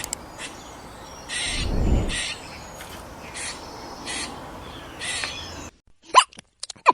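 Squirrel giving harsh, raspy alarm calls, about five short calls a second or so apart. Near the end the sound cuts to a different recording of sharp, quick squeaky chirps.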